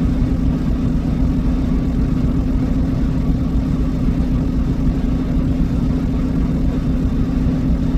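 Steady drone of a semi-truck's engine and road noise heard from inside the cab while driving, a constant low hum with no change in pitch.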